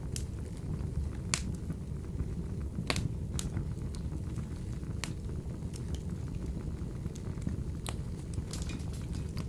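Wood fire burning in a wood-burning stove: a steady low rumble of the flames with sharp crackles and pops every second or so.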